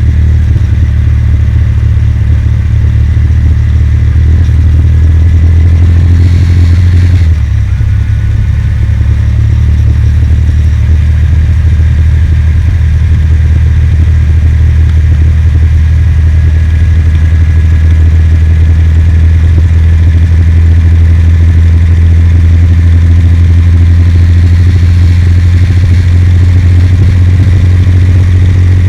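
Kawasaki W800's air-cooled parallel-twin engine running steadily as the motorcycle is ridden, a loud, deep rumble. About seven seconds in the sound dips briefly and changes pitch, then settles into a steady run again.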